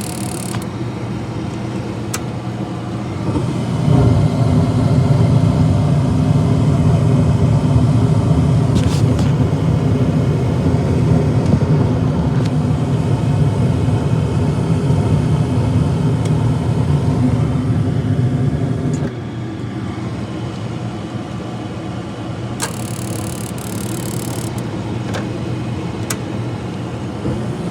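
Furnace running with a steady low hum. The hum grows louder about four seconds in and drops back at about nineteen seconds. There is a short hiss at about twenty-three seconds.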